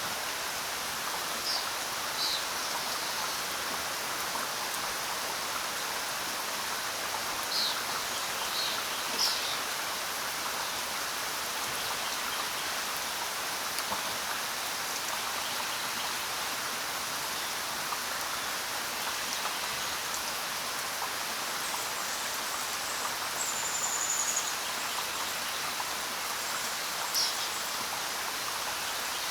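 Steady rain falling, a constant even hiss, with a few brief high bird chirps scattered through it and one short whistled note near the end.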